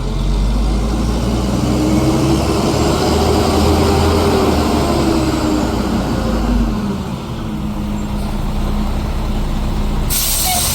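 Garbage truck's diesel engine running heavy, with a deep rumble and a rising then falling engine pitch as it pulls away, settling to a steadier tone about seven seconds in. A loud hiss starts near the end.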